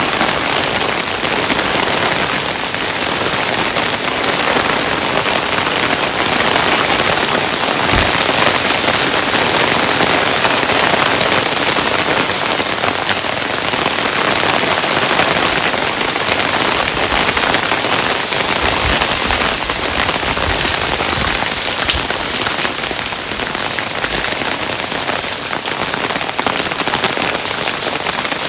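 Hailstones pelting a surface, a dense steady patter of many small hits with a few deeper thuds.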